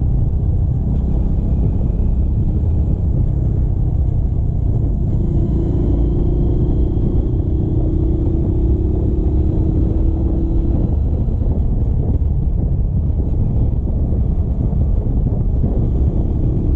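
Steady low rumble of a motorcycle on the move, wind buffeting the microphone over the engine. A steady humming tone joins it for several seconds midway through.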